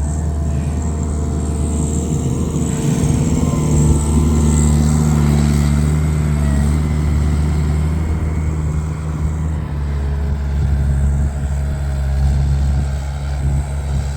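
Skid steer engine running steadily, a loud low drone.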